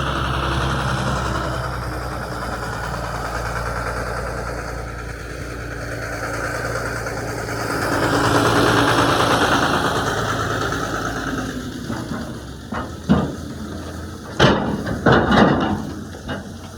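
Fishing boat's engine running steadily with a low hum, swelling about halfway through and then fading. Near the end come a few short, loud, sharp bursts.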